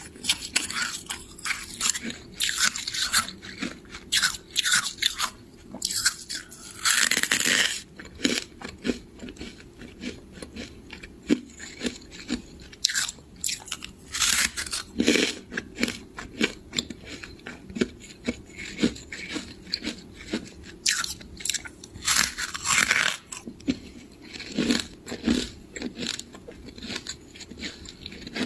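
Close-miked biting and chewing of freezer frost and ice: dense, irregular crunching and crackling, with a few longer, louder crunches.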